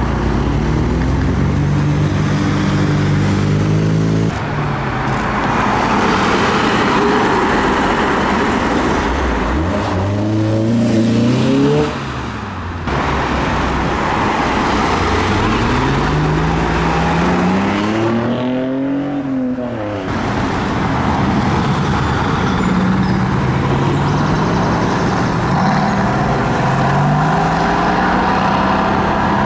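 Performance car engines and exhausts accelerating away, revs climbing and dropping back repeatedly as the cars shift gears, in a few separate runs that change abruptly.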